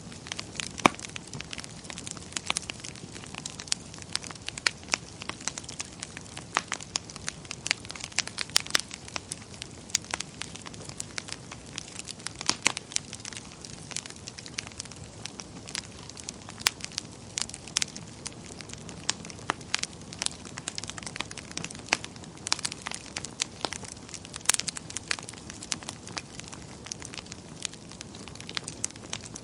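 Wood fire burning in a fireplace: irregular crackles and sharp pops, several a second, over a soft steady hiss of flame.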